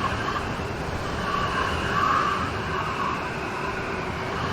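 Rainstorm: steady rain falling, swelling slightly about two seconds in.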